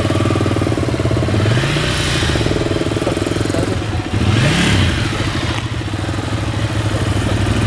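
Motorcycle engine running at low speed, its pitch rising and falling twice as the throttle is opened and eased off, about two seconds and four and a half seconds in: low-speed throttle-control riding.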